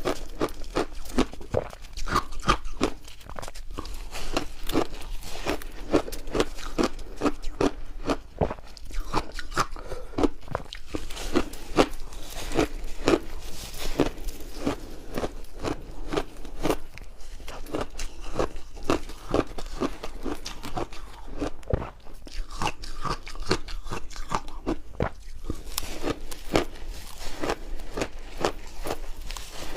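Close-up crunching of refrozen shaved ice chunks being bitten and chewed, a quick, continuous run of sharp crackling crunches several times a second.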